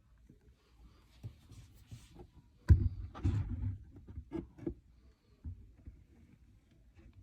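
A sharp knock a little over a third of the way in, then a run of softer knocks and rustling, with one more knock later.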